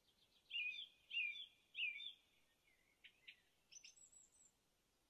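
Faint bird chirping: three short chirping phrases in the first two seconds, then a few softer, sparser chirps about three to four and a half seconds in.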